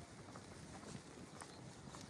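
Rain falling steadily, a faint even hiss broken by scattered sharp taps.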